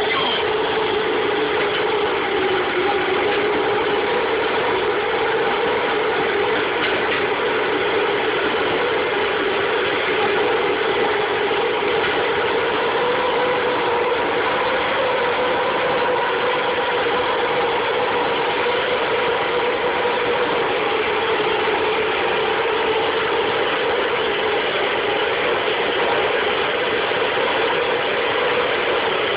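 Propane burner of a plumber's lead-melting furnace running with a steady, rough roar, keeping the lead molten for the joint.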